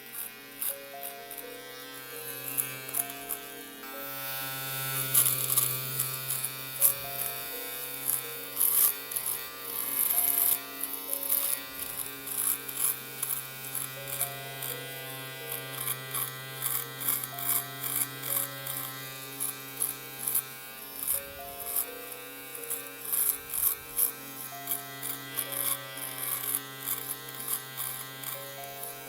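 Electric shaver buzzing steadily, with many sharp crackling clicks.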